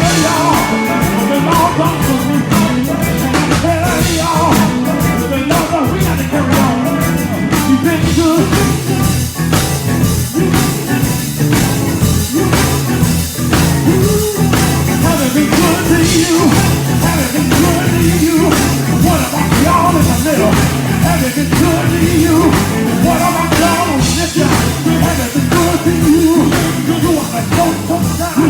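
A band playing a rock-style tune with a drum kit keeping a steady beat, with singing over it.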